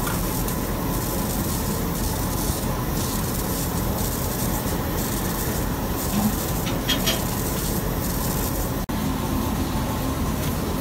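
Milking-machine vacuum system running steadily: a constant mechanical hum with a hiss, with a few faint clicks a little past the middle. The sound drops out for an instant near the end.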